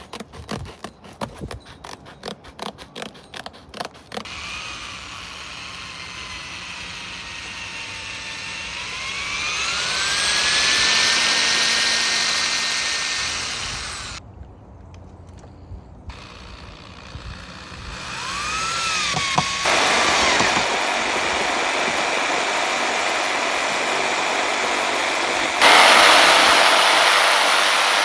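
Power drill at work: a run of rapid knocks, then the drill's motor whines and rises in pitch as it speeds up and holds. Later passages are broken off by sudden cuts.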